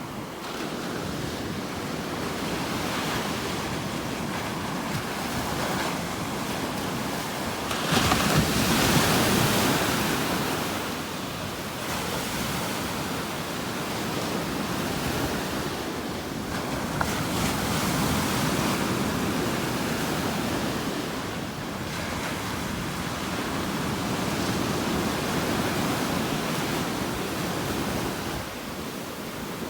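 Ocean surf: waves breaking and washing up the beach in slow swells, the loudest surge about eight seconds in. Some wind noise on the microphone.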